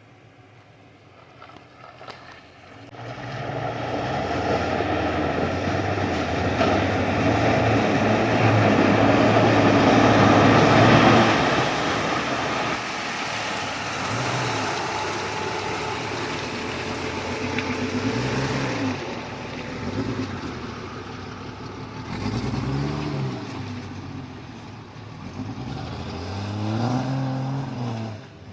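Jeep Cherokee XJ engine running, louder from about three seconds in, then revved up and back down in four short blips over the second half.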